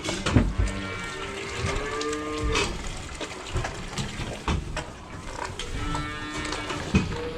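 Dairy cows mooing: two long calls, one about a second in and another near the end, with scattered clanks and knocks around them.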